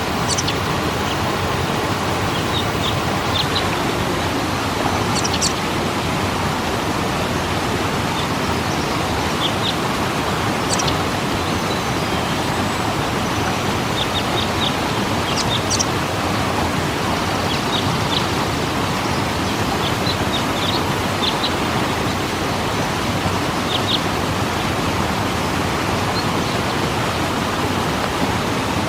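Waterfall rushing steadily, with short high bird chirps here and there.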